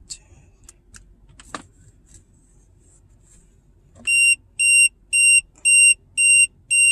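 Zmoon tire pressure monitor display unit beeping: a few faint button clicks, then from about four seconds in a loud run of high electronic beeps, about two a second.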